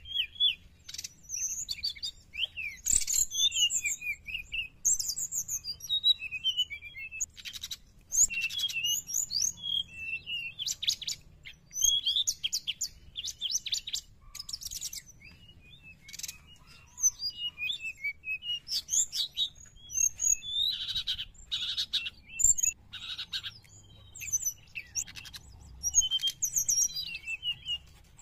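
Brown-chested jungle flycatcher singing hard and almost without pause: a fast, varied run of high chirps, slurred whistles and rapid buzzy trills, broken by short gaps.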